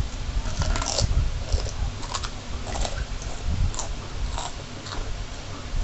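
A child eating fried noodles: regular, wet mouth-chewing noises about every half second or so, mixed with light clicks from a metal spoon and fork working the noodles on a plastic plate.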